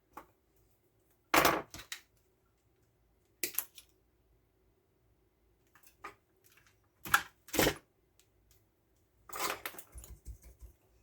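Hand tools and small parts being handled while wiring: a few short clicks and clatters, the loudest about a second and a half in and again around seven seconds, and a longer run of clattering near the end, over a faint steady hum.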